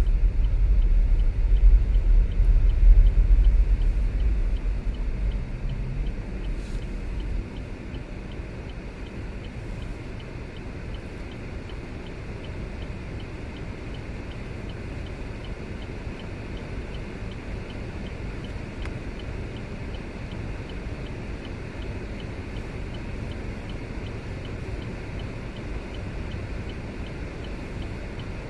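Vehicle driving on the road, a steady rumble of tyres and engine. It is louder and deeper for the first several seconds, then settles to a quieter steady noise about seven seconds in.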